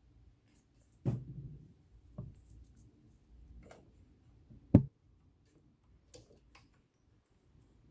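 Scattered clicks and light knocks from handling a metal sewing machine and cleaning tools: about six irregular taps, the sharpest just under five seconds in, with faint rubbing between.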